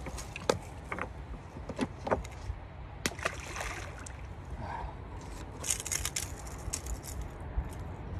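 Fishing tackle being handled: scattered clicks and light metallic rattles, with two short stretches of hiss, over a steady low rumble of wind on the microphone.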